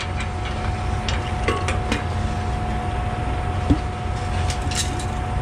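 Concrete pump truck running during washout, a steady low rumble with a steady whine, while rocks thrown out of the pump line clink and knock at scattered moments, the sharpest a little before four seconds in.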